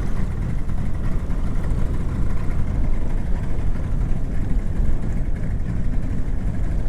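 Small fishing boat's outboard motor running, a steady low rumble.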